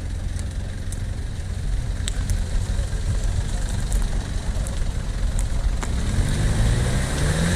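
Off-road SUV engine running at low revs, then revving up, its pitch rising, about six seconds in as it pulls under load. A few faint clicks over it.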